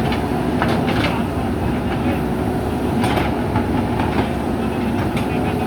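Diesel engine of a JCB backhoe loader running steadily at work, with scattered metallic clanks and knocks over the drone.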